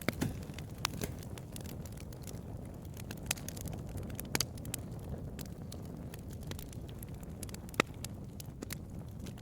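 Wood fire crackling: scattered sharp pops and snaps over a steady low rumble, with the loudest pop near the end.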